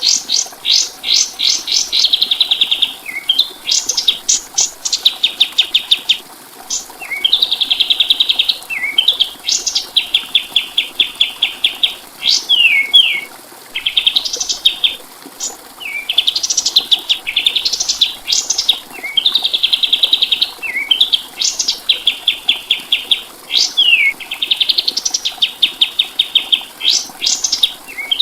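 Kapas tembak songbird singing a loud, repeated phrase about every two seconds: a few quick upswept whistles, then a fast rattling trill, ending in short down-slurred notes.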